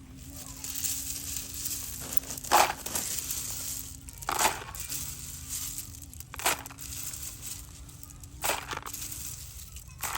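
A small motor running with a steady hum, broken by four loud crunching noises about two seconds apart.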